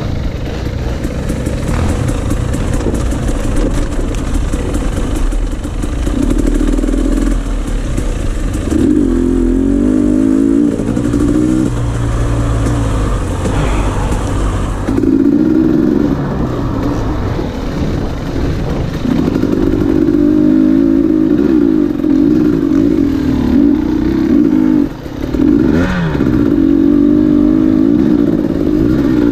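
Dirt bike engines running, with the revs rising and falling again and again. The engine sound drops briefly about 25 seconds in.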